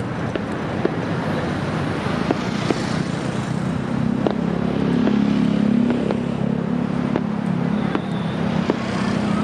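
Steady traffic rumble with an engine drone that swells in the middle and fades. Scattered sharp pops of distant fireworks come through throughout.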